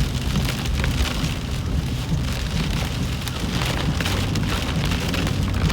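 Heavy rain pattering steadily on a car's roof and windshield, heard from inside the cabin, with a steady low rumble underneath.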